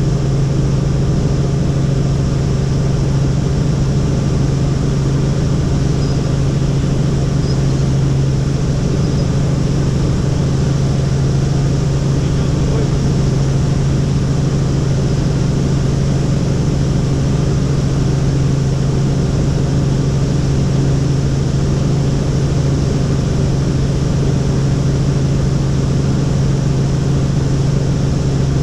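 Helicopter in flight: a loud, steady drone of rotor and turbine with an unchanging low hum.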